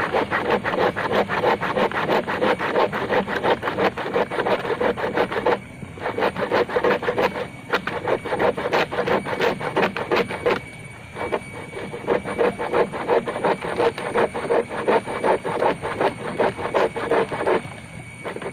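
Hand saw cutting through a yellow bamboo culm: quick, rasping back-and-forth strokes with a few short pauses.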